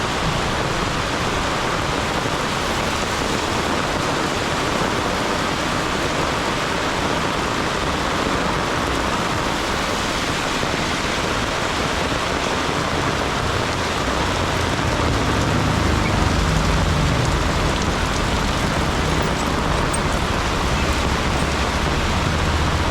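Heavy rain falling in a steady, dense hiss. A low vehicle engine rumble comes in about two-thirds of the way through and stays to the end.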